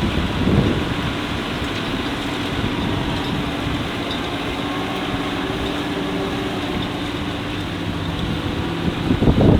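Tractor engine running steadily under load, with an even, unbroken note.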